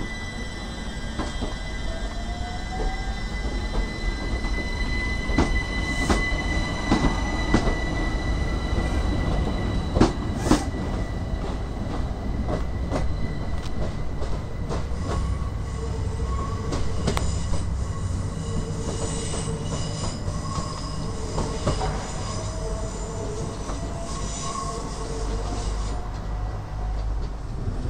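A train running through: wheels click over rail joints about five to ten seconds in, and a whine rises slowly in pitch. Thin high squealing tones come and go above it.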